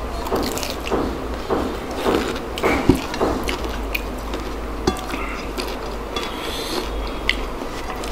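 Close-miked chewing and mouth sounds of people eating with their hands, with wet, crunchy bites about twice a second for the first few seconds and then scattered smacks and clicks.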